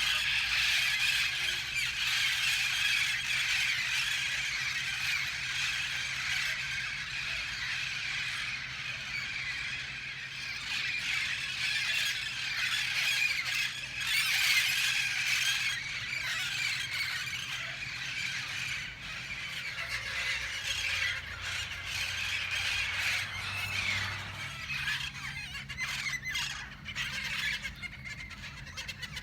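A flock of parrots screeching and squawking in a dense chorus of many overlapping calls, thinning out somewhat in the last few seconds.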